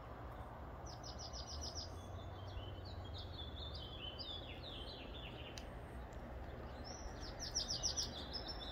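A songbird singing: quick runs of short, high notes about a second in, more through the middle, and another run near the end. A steady low hum lies beneath.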